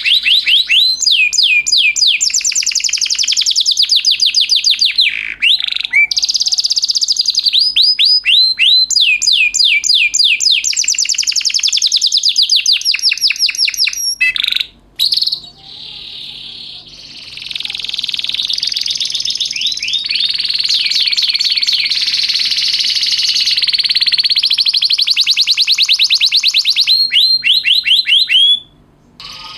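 Domestic canary singing: long runs of rapid, evenly repeated falling notes, one trill after another, breaking off briefly about halfway through and again near the end.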